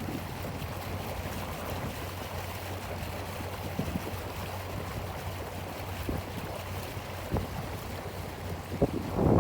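Steady outdoor background hiss with a faint low hum and a few soft knocks.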